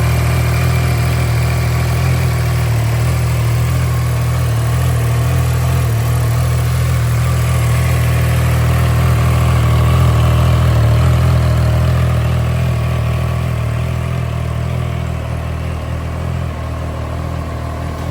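Triumph Tiger Sport 660's three-cylinder engine idling steadily, getting a little quieter over the last few seconds.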